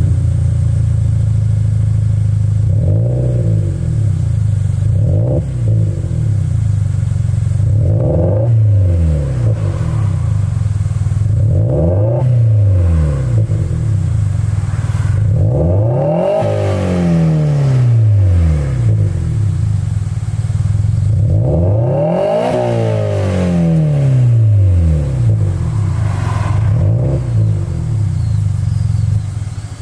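Subaru WRX STI's EJ20 turbocharged flat-four, breathing through a Trust GReddy Power Extreme R aftermarket muffler, free-revving at a standstill. It idles steadily between about seven throttle blips, each rising and then falling back to idle; the two near the middle are longer, higher revs.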